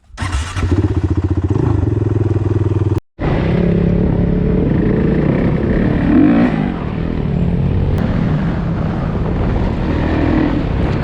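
Off-road vehicle engines running under throttle as the riders pull away. The sound cuts out completely for a moment about three seconds in.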